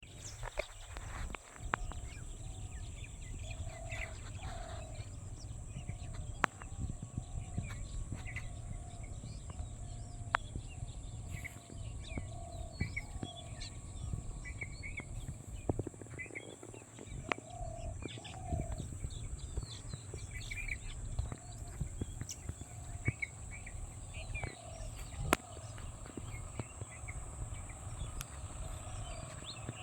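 Birds calling outdoors: a short, low two-note call repeats every second or two, with scattered higher chirps around it. A steady high-pitched drone and a low rumble run underneath.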